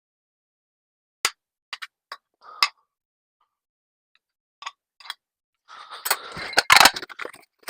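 Kitchen handling sounds: a few scattered clicks and clinks, then, near the end, a burst of clattering with several loud knocks, as of cookware being handled.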